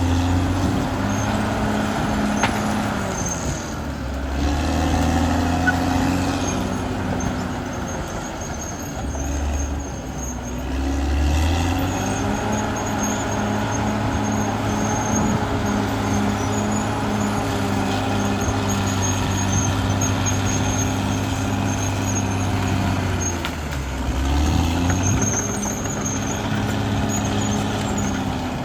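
Caterpillar D6R XL bulldozer's diesel engine working steadily, its note dipping deeper and then recovering three times as the blade takes on load.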